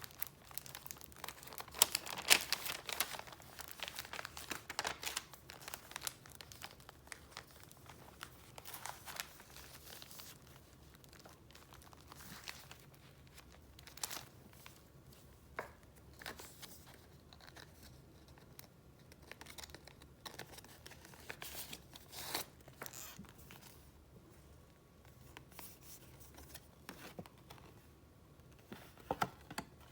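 Paper rustling and crinkling as sheets and paper items are handled and flipped through: dense, busy handling for the first third, then sparser, separate rustles and small clicks, with a louder burst near the end.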